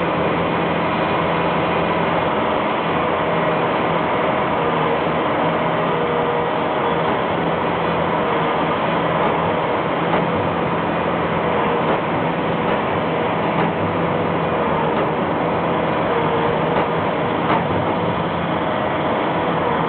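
Tractor running steadily while sweeping up dirt, a continuous engine note over a dense scraping hiss.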